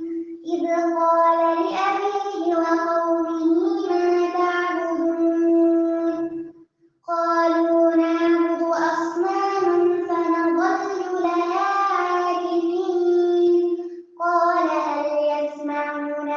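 A young female voice reciting the Quran in melodic tajweed style, holding long steady notes with ornamented turns. It pauses briefly for breath twice, about 7 and 14 seconds in.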